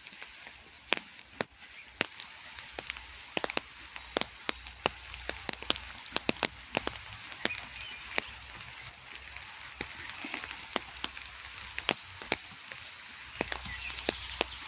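Rain falling: a steady patter with many irregular, sharp taps of drops striking close by.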